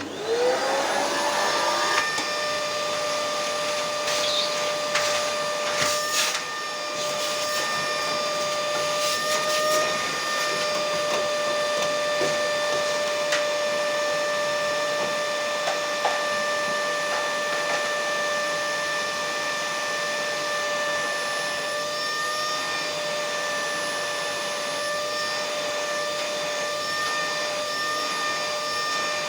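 An electric motor switches on and spins up within about a second to a steady whine over a rushing hiss, then runs on evenly. A few clicks and rattles come through about five to seven seconds in.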